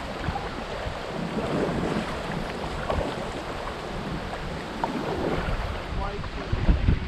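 River water rushing around a kayak, with wind buffeting the microphone in low rumbles that grow louder near the end.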